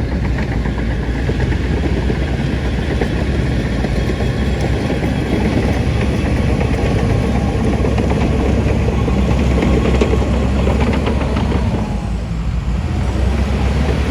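Heavy diesel engine of earthmoving machinery running steadily, with a light rapid clicking rattle over it in the middle seconds.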